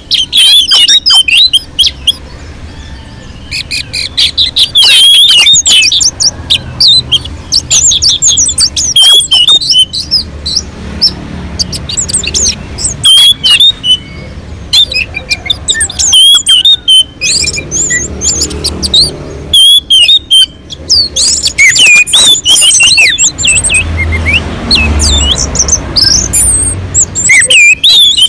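Orange-headed thrush singing loudly and without pause: fast, varied phrases of whistles and chirps. A low rumble sits under the song about three-quarters of the way through.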